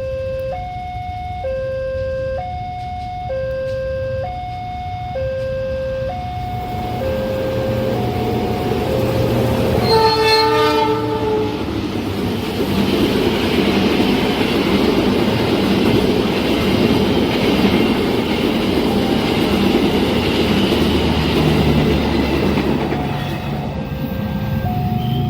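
A two-tone level-crossing alarm switches pitch about every half second. Around ten seconds in, a train horn sounds once, and a long train passes at speed, its wheels rumbling and clattering on the rails for about ten seconds. The crossing alarm is heard again near the end.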